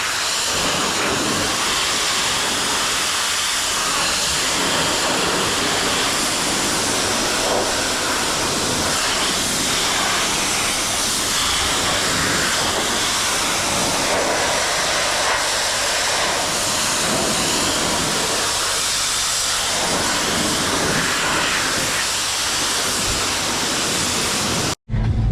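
High-pressure water spray from a car-wash lance, a steady loud hiss of water hitting the car. It cuts off abruptly near the end.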